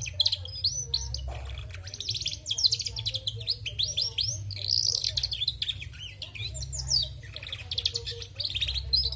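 Female domestic canary twittering in full voice: quick runs of rapid chirps and trills with short breaks, over a low steady hum. The twittering comes from a hen, so it is no proof that a canary is male.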